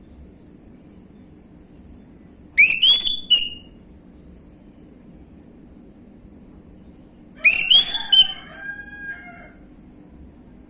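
Orange-headed thrush singing: two short, loud phrases of rising, whistled notes a few seconds apart, the second longer and ending in a quieter warble.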